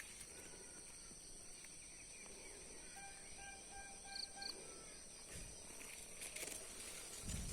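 Faint outdoor ambience: a steady high insect drone, with a bird giving a short run of evenly spaced repeated notes about halfway through, followed by two brief high chirps.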